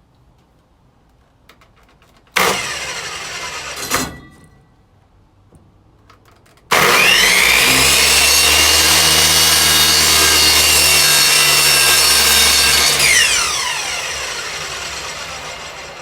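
Electric miter saw motor briefly triggered and released about two seconds in, then started again about seven seconds in. It spins up with a rising whine, runs steadily for about six seconds while cutting wood, and is released to wind down with a falling whine near the end.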